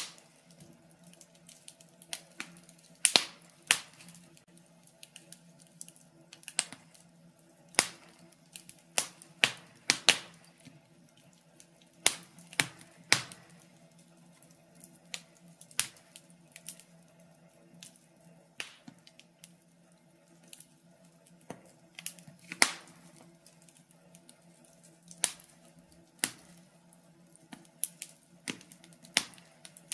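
Wood fire crackling in a fireplace: irregular sharp pops and snaps, sometimes several a second, over a faint steady hum.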